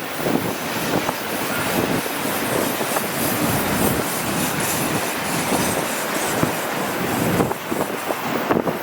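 Freight train of empty autorack cars rolling past, steel wheels clicking and clattering over the rail joints in a steady, continuous rumble.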